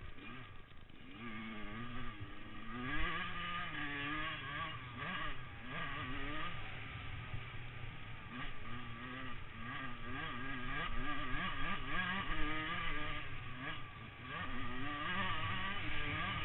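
Motocross motorcycle engines revving, the pitch climbing and falling again and again as the throttle is worked, with brief quieter lulls.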